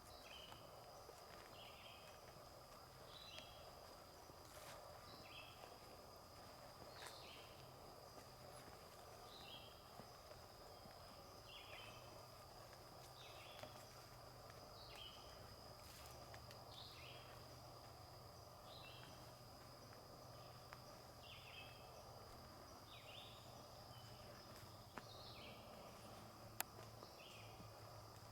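Faint woodland bird calls, short paired high notes repeated about every second, over a steady thin high tone and soft forest ambience. A few faint clicks are scattered through, including a sharper one near the end.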